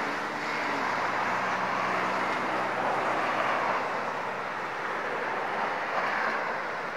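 Diesel-hauled passenger train rolling slowly away along the track: steady rolling noise, with a faint low engine drone that fades out about halfway through.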